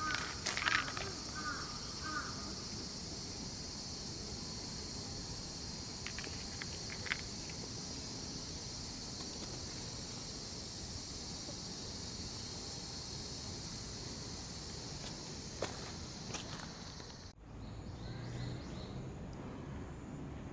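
Steady high-pitched outdoor insect drone, cutting off abruptly about three quarters of the way through, followed by quieter background.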